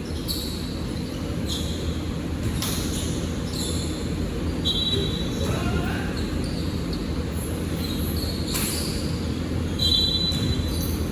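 Basketball game in a gym hall: the ball bouncing on the court among scattered knocks, with brief high squeaks about halfway through and again near the end, over a steady murmur of voices and hall noise.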